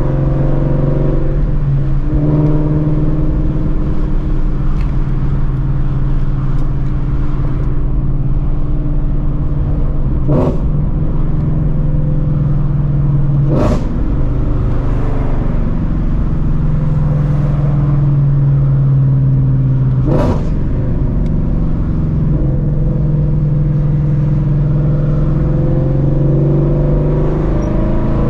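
Ford Shelby GT350's 5.2-litre flat-plane-crank V8 with long-tube headers and a straight-piped exhaust, running loud and steady at a cruise. Three brief whooshes partway through.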